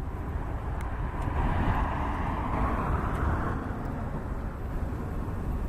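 Jet engine roar of a Southwest Boeing 737 taking off, a broad rushing noise that swells about a second in and fades again near the four-second mark, over a steady low rumble.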